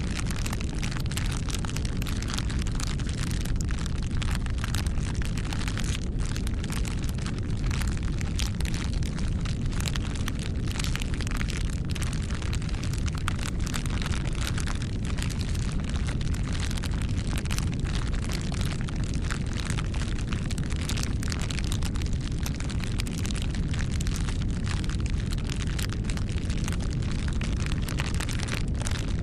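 Wood fire burning: a steady low rumble of flames with frequent crackles of burning wood throughout.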